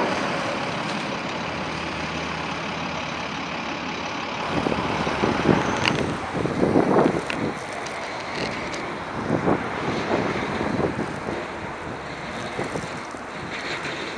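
Heavy truck running on a snowy road: a steady rush of engine and tyre noise, with a few louder surges between about five and eleven seconds in.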